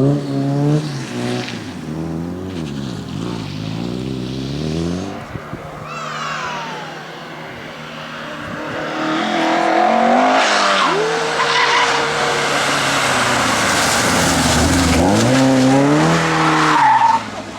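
Rally cars at speed on a stage, engines revving up and down through gear changes with tyre noise. A first car fades after a few seconds. A second, louder one builds from about halfway and cuts off suddenly near the end.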